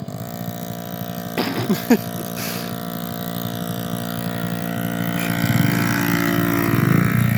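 Small 50cc kids' dirt bike engines running steadily, with a short sharp sound about a second and a half in; the engine note grows louder over the last two seconds.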